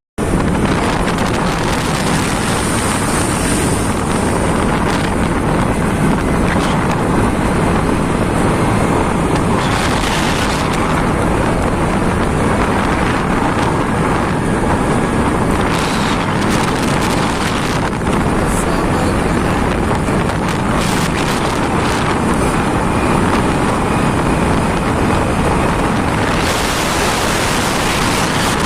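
Steady wind rushing over the microphone of a motorcycle riding at speed, mixed with road noise.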